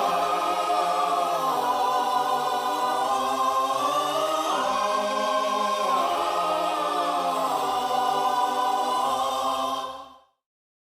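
Choral music: voices singing long held chords that shift slowly, cutting off quickly near the end.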